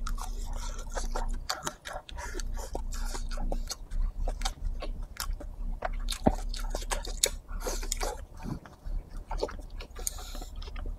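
Close-miked chewing of stir-fried pressed dried tofu and pork, full of small wet mouth clicks and smacks.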